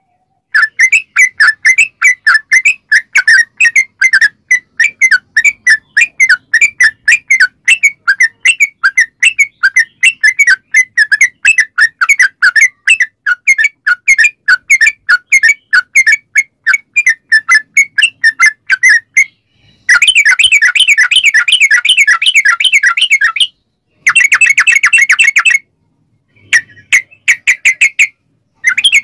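Yellow-vented bulbul (trucukan) singing: a long string of short, bubbly chirping notes about three to four a second. From about two-thirds of the way in it changes to faster, rolling runs in three stretches, broken by brief dead silences.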